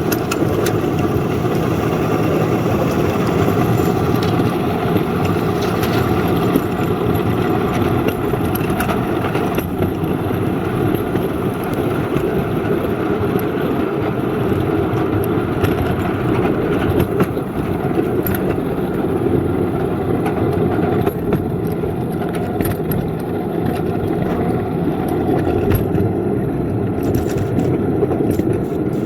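Engine of a small ride-on railroad locomotive running steadily while it plows snow off the track, with scattered light clicks and knocks.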